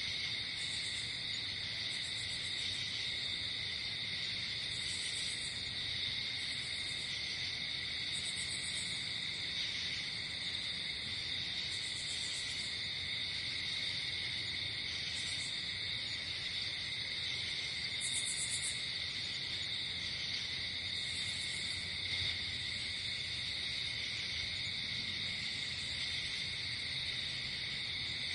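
Night insect chorus: a steady unbroken trilling of crickets, with short high buzzy chirps from another insect every second or two.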